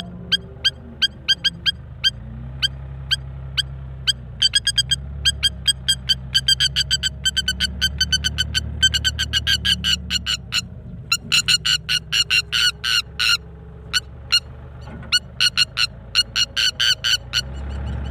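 A bird calling in a rapid series of short, sharp notes, several a second, coming fastest about two-thirds of the way through: alarm calls typical of a parent defending its eggs. Low background music plays underneath.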